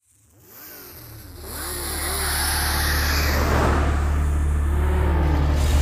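High-performance car engine accelerating hard, its pitch rising and falling several times over a steady low drone. It fades in from silence over the first couple of seconds.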